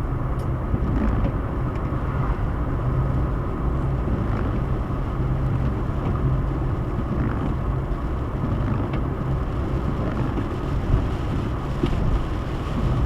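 Steady road and engine noise inside a moving car's cabin at cruising speed.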